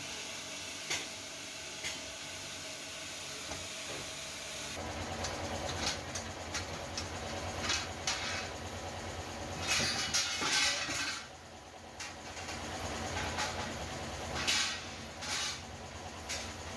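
Workshop noise: a steady hiss, then about five seconds in a low machine hum sets in, with short hissing bursts every second or two.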